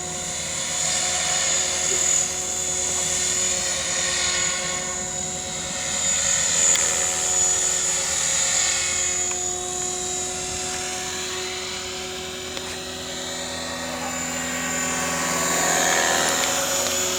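Align T-Rex 600 RC helicopter flying: steady rotor noise with a high-pitched whine, its pitch slowly sliding up and down as the helicopter moves about, getting louder near the end.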